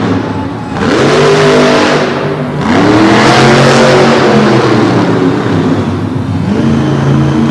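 Monster truck engine revving hard under throttle, its pitch climbing sharply about a second in and again near three seconds in, then holding high before easing off.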